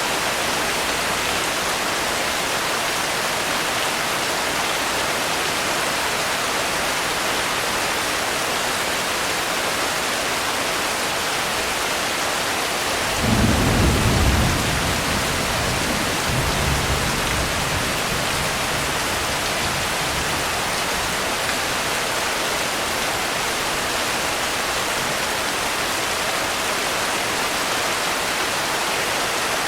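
Steady rain hiss. About 13 seconds in, a roll of thunder rumbles low for about two seconds, followed by a fainter rumble a few seconds later.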